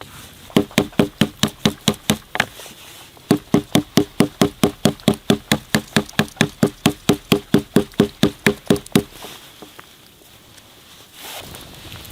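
Quick, even knocks at about five a second, each with a short hollow ring: one short run, then a longer run of about six seconds, the sound of wood being struck repeatedly.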